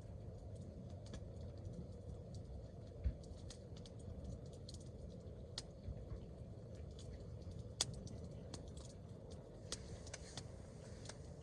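Hardwood campfire crackling: irregular sharp pops and snaps over a low steady rumble, with one louder knock about three seconds in.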